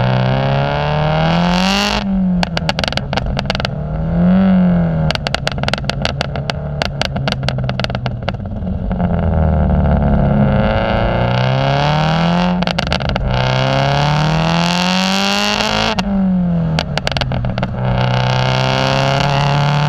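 Car engine revved through a loud exhaust: the pitch climbs and drops back several times, with a rapid crackle as the revs fall, then settles to a steady idle near the end.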